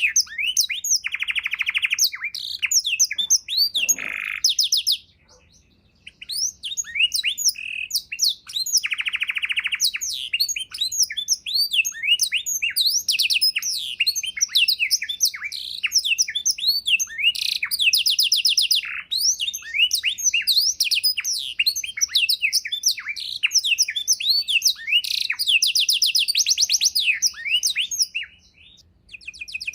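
Domestic canary singing a long, fast song of high chirps and rolling trills, rich in learned fill-in (isian) phrases; it breaks off briefly about five seconds in and again near the end.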